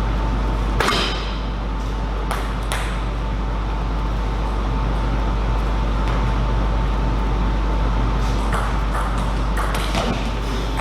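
Table tennis ball clicking sharply off the bat and table: a few scattered hits, one about a second in, two a couple of seconds later, and a short cluster near the end, over a steady background hum.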